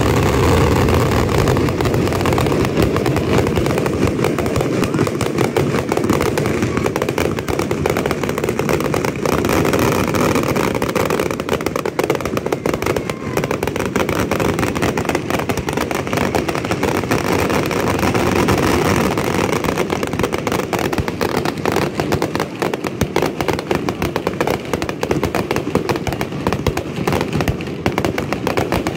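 Fireworks barrage: many aerial shells bursting in rapid, overlapping succession, merging into a continuous rumble and crackle.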